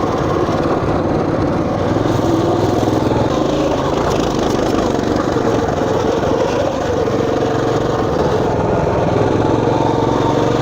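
Motoland RT200 off-road minibike's engine running steadily under way, with only small changes in pitch.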